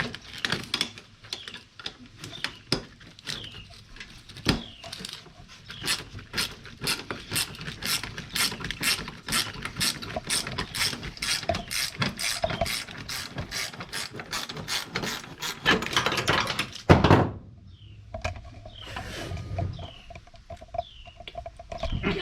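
Hand ratchet wrench clicking in rapid, even strokes as a bolt is worked on an engine under teardown, followed by one loud knock near the end.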